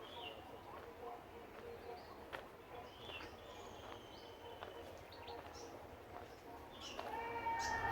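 Scattered short bird chirps and calls in woodland, faint, with a few light clicks. About seven seconds in, a louder siren-like wail with several overtones comes in, sagging slowly in pitch.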